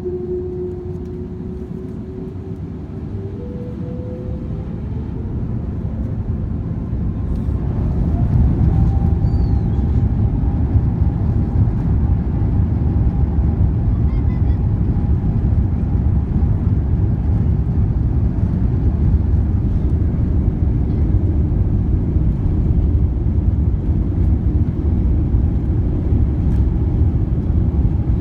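Airbus A350-900's Rolls-Royce Trent XWB engines spooling up for takeoff, heard inside the cabin. A whine rises in pitch and a low rumble grows louder over the first eight seconds, then both hold steady at takeoff thrust.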